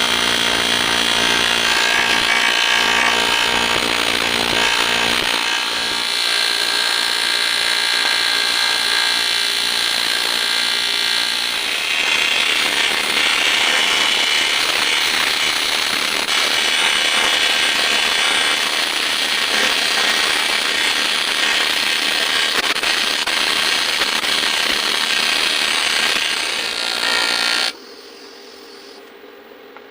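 A workshop tool working on an aluminum cylinder head, running steadily with a dense, buzzing noise, then cutting off abruptly near the end.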